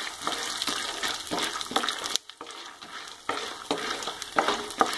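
Peanuts, urad dal and chana dal frying in hot oil in a pan, with a steady sizzle and a wooden spoon stirring and scraping them around in short irregular strokes. The sound drops out briefly about two seconds in.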